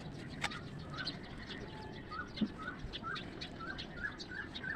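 A small bird chirping over and over, short similar chirps at about two a second.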